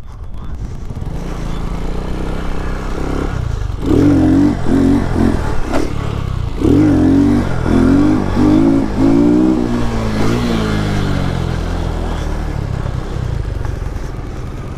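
Lifan KP motorcycle's single-cylinder engine running under way, revved hard in a string of short bursts between about four and ten seconds in, then running steadily again.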